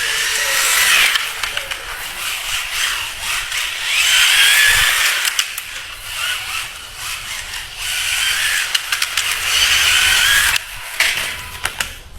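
Toy RC pickup truck's motor whining in several surges as it drives over rough ground, with gritty scraping and clicking from the wheels and chassis.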